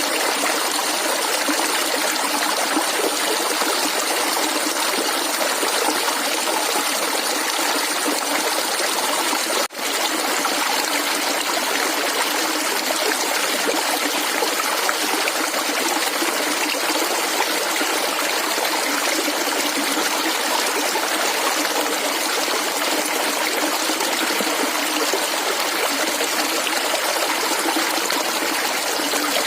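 Shallow running water gurgling and trickling steadily, like a small stream, with a momentary break in the sound about ten seconds in.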